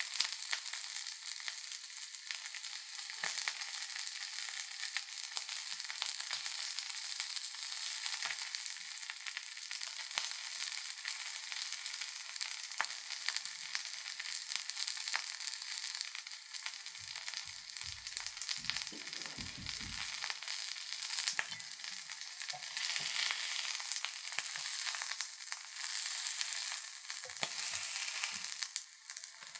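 Corn and rice-flour batter frying in hot oil: a steady, dense sizzle with many small crackles. There are a few low bumps about two-thirds of the way through.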